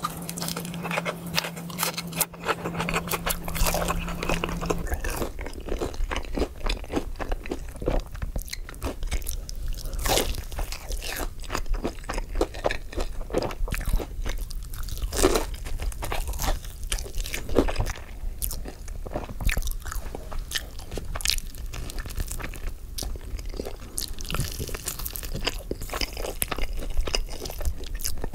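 Close-miked eating of crunchy fried food: repeated crisp bites and chewing crunches in quick, irregular succession. A low steady hum sits under the first few seconds, then stops.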